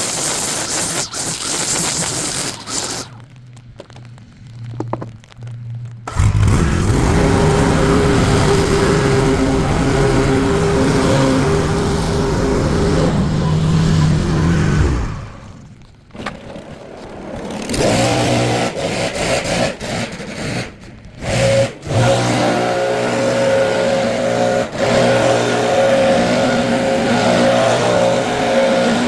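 Small petrol engine of lawn-care equipment running, quieter at first, then loud from about six seconds in, dipping briefly about halfway through before coming back.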